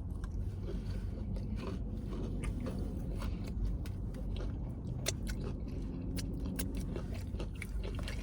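A person chewing food close to the microphone, with many short wet clicks and smacks of the mouth.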